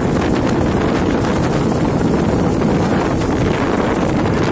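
Steady, loud wind buffeting the microphone, with the rush of a speedboat running across the water underneath.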